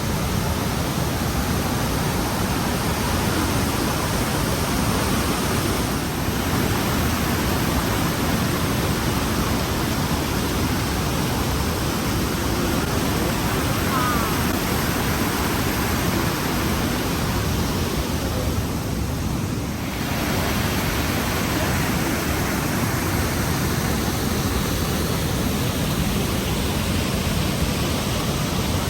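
Rhine Falls, a large waterfall, giving a steady, loud rushing of falling water. The level dips briefly about twenty seconds in.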